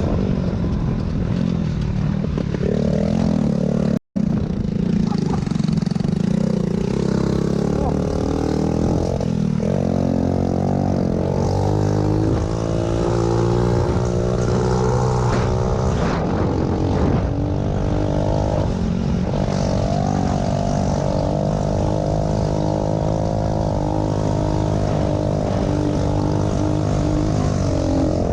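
Pit bike engines running and revving, their pitch rising and falling with the throttle. The sound cuts out completely for a moment about four seconds in.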